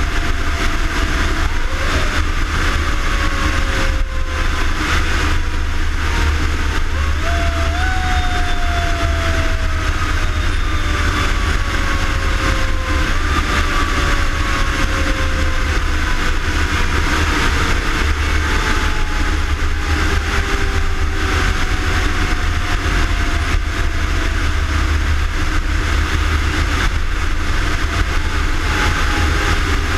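Fire engine running on the road: a steady low rumble of engine and road noise, with a whine that falls slowly in pitch and is pushed back up several times.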